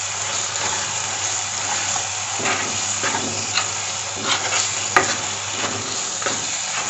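Gongura leaf mixture with crushed garlic cloves sizzling in oil in a pan while a spoon stirs and scrapes through it in irregular strokes, with one sharp tap of the spoon against the pan about five seconds in.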